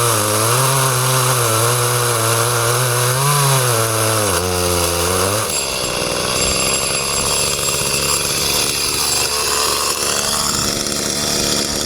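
Chainsaw running at high revs while cutting, its pitch wavering up and down under load; about five seconds in the revs drop and it runs on at a lower, rougher note, as if back at idle.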